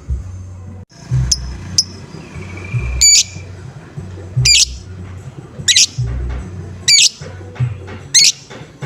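Lovebird calling in sharp, repeated 'ngoek' squawks, about one every second and a quarter, after a few shorter chirps. A backing track with a low, steady beat plays underneath.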